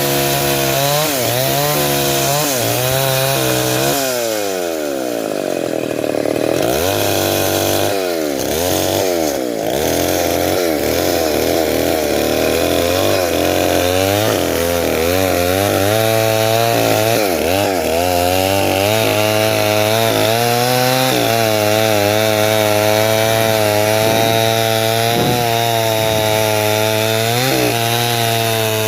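Stihl 070 two-stroke chainsaw running under load while ripping timber lengthwise, its engine pitch repeatedly sagging and rising as the bar bites into the wood. The pitch swings most deeply a few seconds in.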